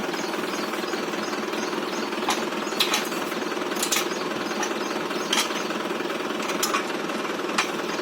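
Tractor's diesel engine running steadily, driving the bore well lifting machine, with a fast pulsing beat. About six short sharp knocks come at uneven intervals over it.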